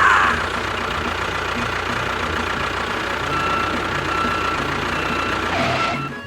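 Vehicle engine running steadily at idle, cut off suddenly at the very end.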